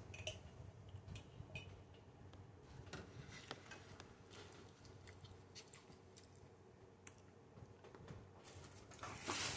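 Someone chewing, faint soft wet clicks and mouth sounds at irregular moments over a low steady room hum, with a louder rustling noise near the end.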